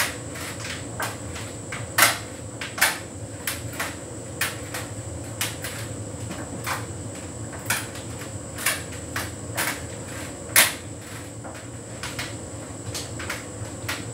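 Hotpoint heat pump tumble dryer running a synthetics cycle: a steady hum from the machine with a faint high whine, and irregular knocks and clicks as the load tumbles in the turning drum, a few of them sharper and louder.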